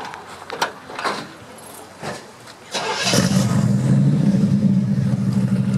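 A few light clicks, then a car engine starts about three seconds in and settles into a steady, low idle.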